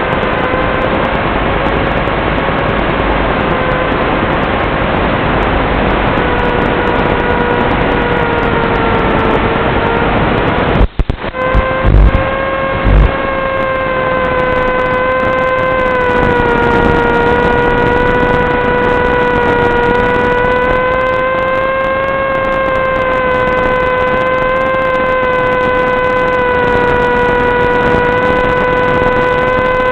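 Electric motor and propeller of an FPV wing running steadily in flight, a whine that drifts slightly in pitch over wind rush. About eleven seconds in the sound breaks up briefly with a few thumps before the steady whine returns.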